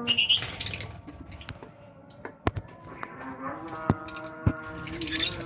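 Lovebirds giving shrill high-pitched chirps and squeaks in short bursts, at the start and again in the second half, with a few sharp knocks in between.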